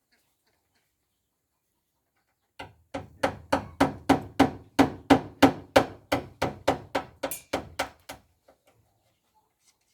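Hammer blows on wood, an even run of about eighteen strikes at roughly three a second, each with a short ring. They start about two and a half seconds in and stop about eight seconds in.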